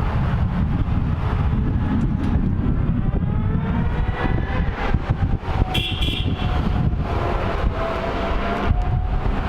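A motor vehicle running, with a heavy low rumble and an engine pitch that slowly rises and falls, and a short high beep-like tone about six seconds in.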